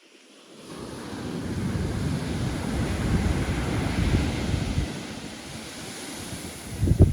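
Pacific Ocean surf: a wave surges in and breaks, the wash building for a couple of seconds and then easing off, with wind buffeting the microphone. A short loud low thump comes just before the end.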